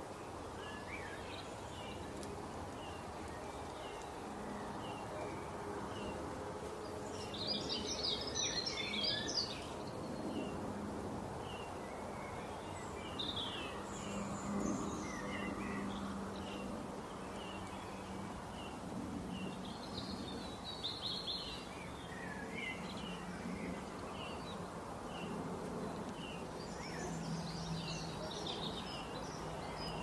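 Garden birdsong: many short, high chirps repeating throughout, with louder bursts of song about eight seconds in, around twenty seconds and near the end, over a steady low background hum.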